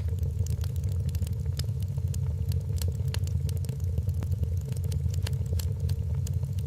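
Wood fire crackling in a fireplace: frequent small, sharp pops and snaps, irregularly spaced, over a steady low rumble.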